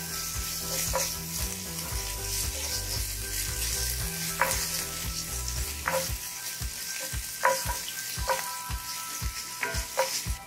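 Chopped garlic and ginger sizzling steadily in hot sesame oil in a cast-iron skillet while being stirred with a wooden spatula, with a few light clicks of the spatula against the pan.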